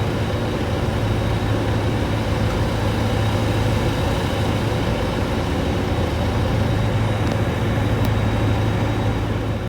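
Large engine running in a steady low drone with a strong deep hum.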